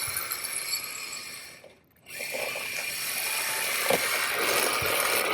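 MJX Hyper Go 14302 electric RC rally car's motor whining and its drift tyres scrubbing as it drifts. The sound fades away almost completely just before two seconds in, then picks straight up again as the car pulls away.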